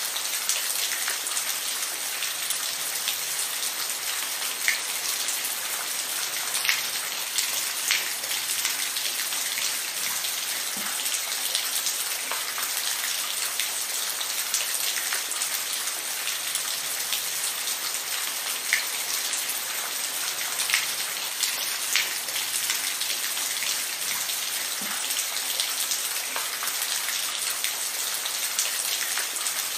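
Steady rain falling, a constant hiss with individual drops ticking sharply here and there, louder ones about every second or two.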